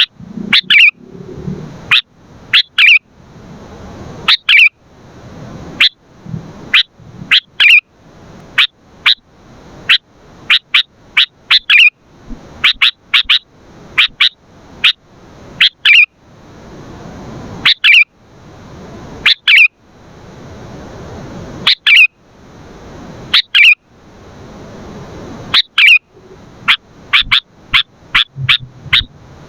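Sooty-headed bulbul calling energetically: short, sharp chirps repeated singly or in quick runs of several, with a hiss rising in the gaps between them.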